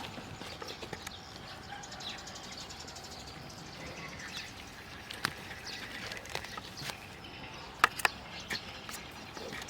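Outdoor background with scattered short chirps and small clicks, and two sharper clicks in quick succession about three-quarters of the way through.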